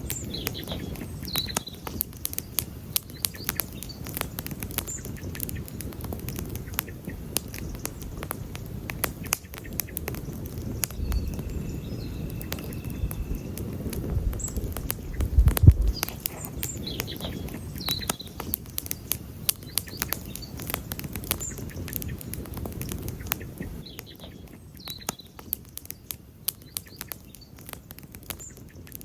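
Wood campfire crackling and popping steadily, with sharp snaps over a low rumble of burning. About halfway through the rumble swells briefly into a low surge, the loudest moment. Faint bird chirps sound in the background.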